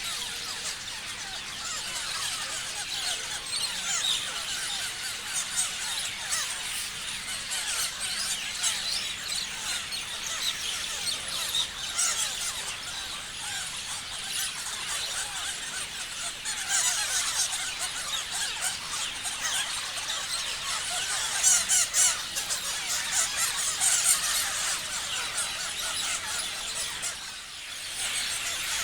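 Many parrots chirping together: a dense, continuous chatter of short, overlapping high calls. It grows louder in the middle and dips briefly near the end.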